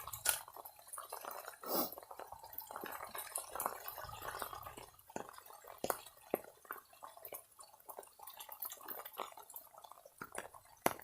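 Muddy runoff water trickling and dripping down an eroding slope, with an irregular patter of small splashes and clicks.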